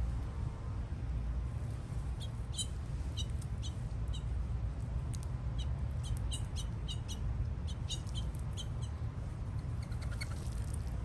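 Small birds chirping: a loose series of short, high chirps in the middle of the stretch, with a few lower notes near the end, over a steady low rumble.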